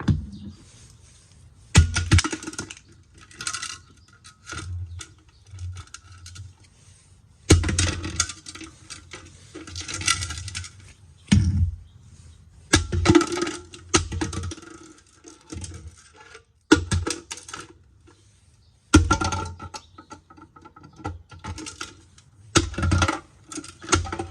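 Hard plastic and metal parts of an Aroma electric hot water kettle being broken apart and handled, giving irregular clusters of knocks and rattling clatter, several seconds apart.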